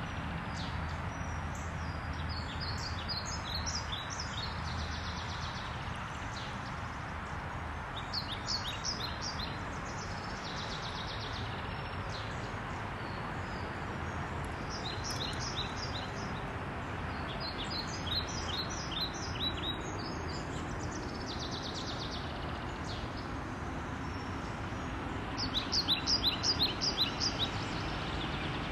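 Songbirds singing, short bursts of rapid high chirping notes repeated every few seconds, the loudest burst near the end, over a steady outdoor background rumble.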